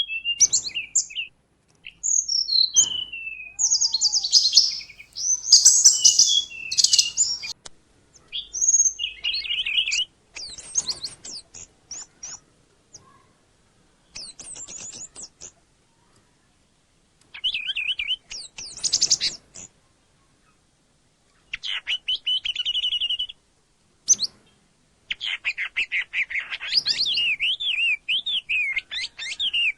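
Small songbirds singing: a masteran compilation of sharp, high chirps, rapid trills and whistled sweeps in separate phrases, with a few abrupt short silences between phrases. Tracks like this are played to caged songbirds such as the oriental magpie-robin to teach them new song.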